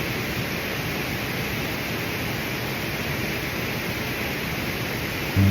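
Steady rushing noise of flowing water, like a mountain stream running over rocks, starting abruptly and holding level throughout.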